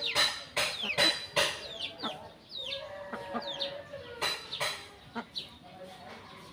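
Chickens clucking while sparrows chirp over and over in short falling notes, with several loud short scratchy sounds in the first second and a half and again about four seconds in.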